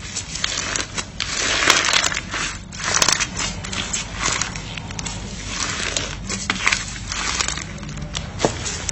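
Slime being squeezed and pressed by hand, giving an irregular run of crackles and sharp clicks.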